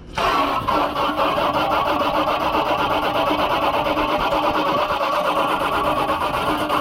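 Garden hose jet spraying onto the condenser fan blades of an outdoor air conditioner, spinning the fan: a loud, steady rushing spray with a faint hum, starting suddenly just after the start.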